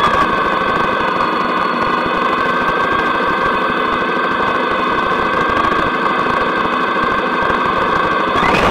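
Motorcycle engine running at a steady pitch while riding, with road noise beneath it.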